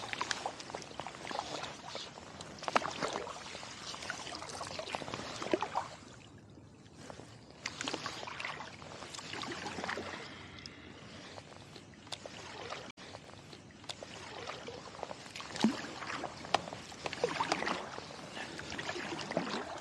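Kayak paddle strokes: the blades dipping, splashing and dripping water in a loose repeating pattern, with a short lull about six seconds in.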